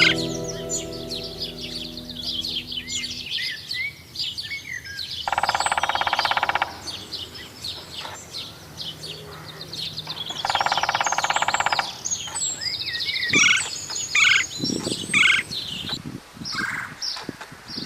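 Songbirds chirping and calling throughout, while a woodpecker twice drums a rapid, even roll, each lasting about a second and a half, about five and ten seconds in.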